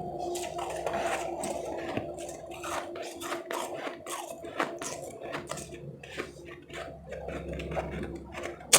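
Close-up crunching and chewing of powdery, refrozen ice chips: a dense run of crisp crackles, over a steady low hum. A single much louder sharp click comes right near the end.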